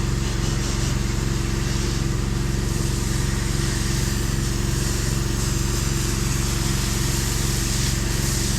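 Gas-engine pressure washer running steadily under load, with the even hiss of its spray as soap is applied through the downstream soap tip.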